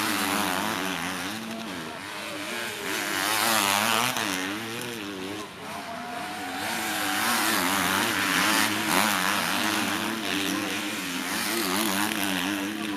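Motocross bike engines revving hard on track, the pitch swinging up and down again and again with the throttle as several bikes ride by.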